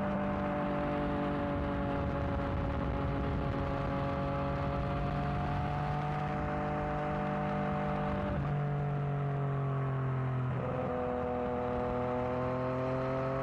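Yamaha XSR900's inline-three engine running through a new aftermarket exhaust while riding. Its pitch rises slowly, drops about eight seconds in and again a couple of seconds later, as on gear changes, then climbs again over a steady rush of noise.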